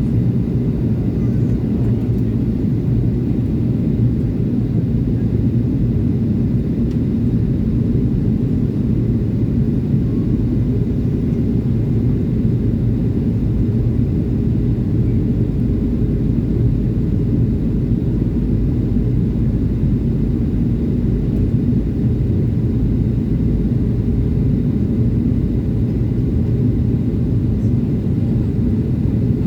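Steady low drone of an airliner cabin in flight, the engines and airflow heard from inside the cabin, unchanging throughout.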